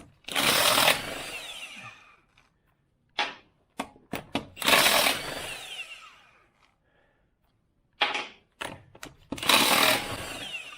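Impact wrench run in three short bursts about four to five seconds apart, each winding down with a falling whine, with a few clicks before each burst.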